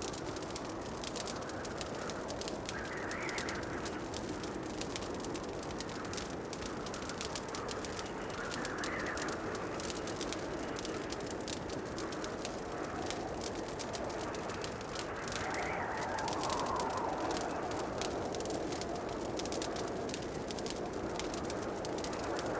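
Wood fire crackling in a fireplace: many small sharp pops and ticks over a steady low rush. A soft, brief swell of sound rises in the background about every six seconds.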